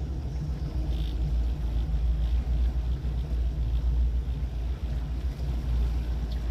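A 30-foot motorboat's engine running steadily underway, a continuous low rumble.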